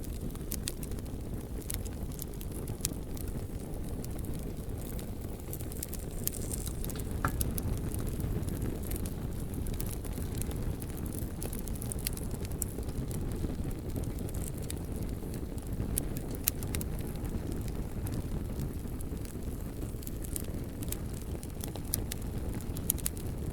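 Campfire burning and crackling, with irregular small sharp pops and snaps over a steady low rumble; a few pops stand out louder, one about seven seconds in.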